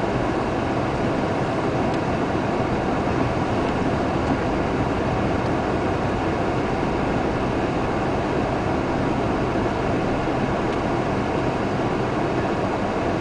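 Steady, unbroken rumble and hiss of a car driving through a storm.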